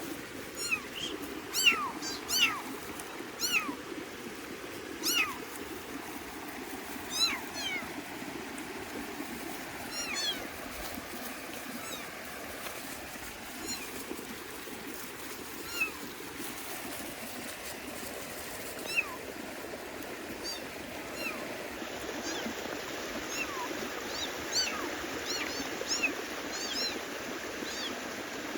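Kittens mewing over and over in short, high, thin cries that fall in pitch. They come thick and fast in the first ten seconds, thin out in the middle, then pick up again near the end, over a steady low background rush.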